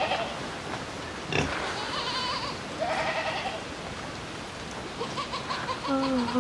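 Farm animals bleating: several separate, quavering calls, one after another.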